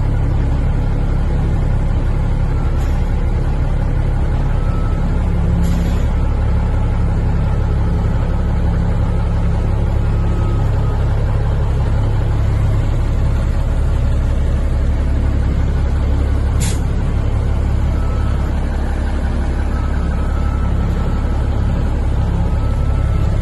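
Heavy vehicle engine running steadily with a low rumble, broken twice by a short sharp click or knock.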